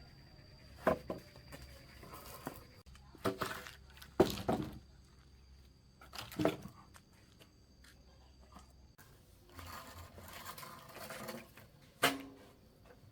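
About six separate knocks at uneven intervals, the loudest about four seconds in, with a stretch of rustling near the end, like wood or tools being handled.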